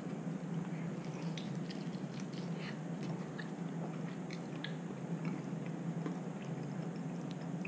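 Faint chewing and mouth smacking while eating a smoked chicken wing, with scattered small wet clicks over a steady low hum.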